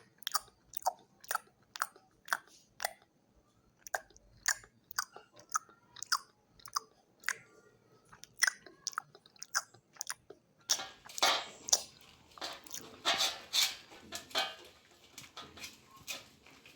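A golden retriever eating its food, chewing with a run of sharp crunches about two or three a second that grow denser and more continuous about ten seconds in.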